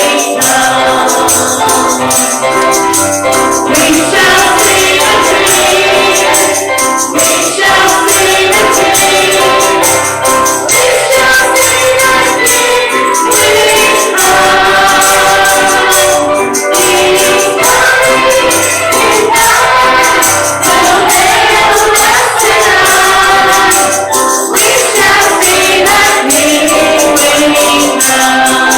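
Gospel song sung by a group of voices in church, with a tambourine shaken along throughout.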